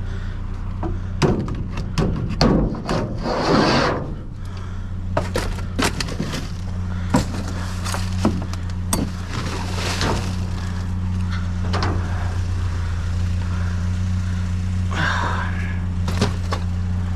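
Scrap junk being rummaged and handled in a dumpster: a run of knocks, clatters and thuds, busiest in the first few seconds, with a couple of scraping rustles, over the steady low hum of an idling engine.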